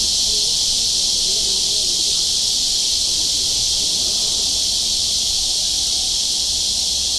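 Chorus of cicadas buzzing as a dense, steady, high-pitched hiss, with faint voices underneath.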